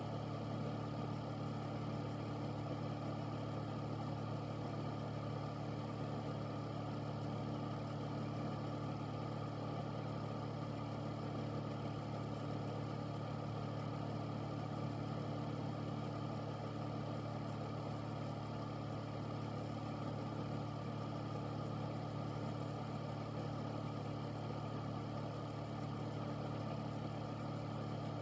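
Air filter unit running steadily: a low, even motor hum under a constant rush of moving air.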